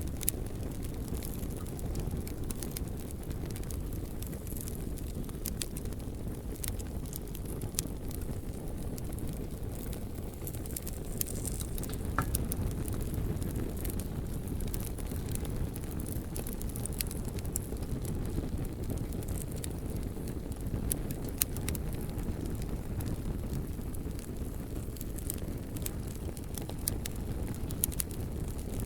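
Campfire burning, with a steady stream of small crackles and pops over a constant low rumble.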